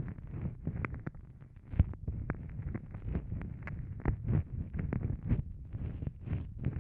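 Close-microphone wet mouth sounds for ASMR 'ear eating': continuous soft smacks, licks and clicks against the microphone, several a second, over a muffled low rumble.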